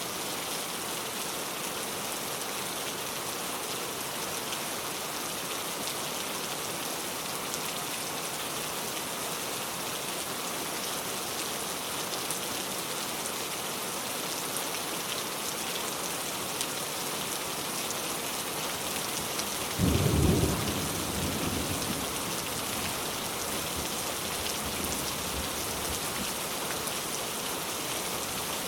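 Steady rain falling on a car, an even hiss throughout. About twenty seconds in, a sudden clap of thunder, which rumbles away over the next few seconds.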